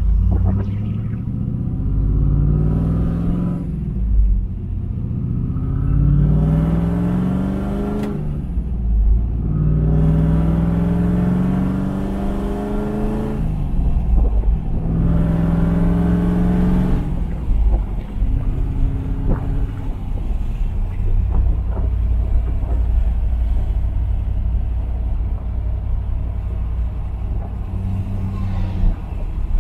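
Built LT4 V8 of a 1997 Camaro SS pulling up through the gears of its six-speed manual, heard from inside the cabin. The engine note rises four times, each climb broken off briefly at a shift, then it settles into a steady cruise for the last dozen seconds.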